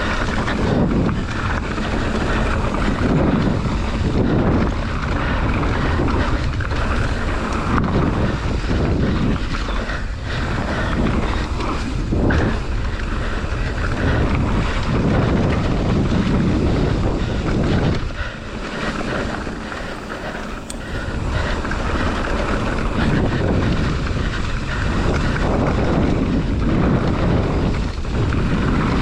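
Wind rushing over the camera microphone and a mountain bike rattling and rumbling down a dirt trail at speed. The noise eases briefly about two-thirds of the way through.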